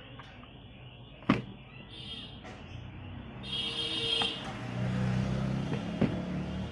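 A sharp knock, then a motor vehicle's engine drone that swells over the second half, with a brief high-pitched sound just before it and another knock near the end.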